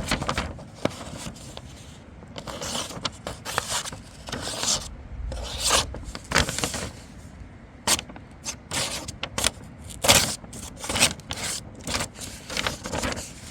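A dull knife blade drawn against a sheet of paper in repeated short strokes, the paper scraping and rustling instead of being sliced cleanly: the edge is too dull to cut paper.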